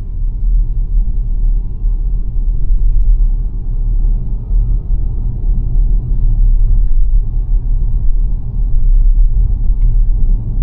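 Steady low road and tyre rumble of a dual-motor Xpeng G9 electric SUV being driven, with no engine note.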